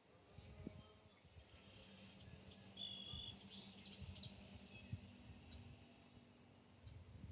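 Small birds chirping faintly, a cluster of short high chirps in the middle, over a faint low rumble.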